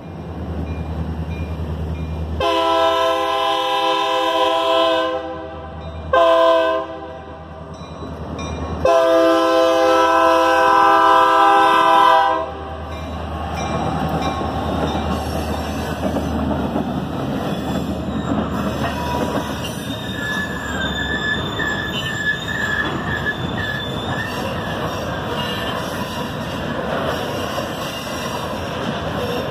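Freight train's diesel locomotive horn sounding a long blast, a short one and a final long one for the crossing, then the locomotives' engines rumble past. Covered hopper cars follow, rolling steadily over the crossing with a thin wheel squeal partway through.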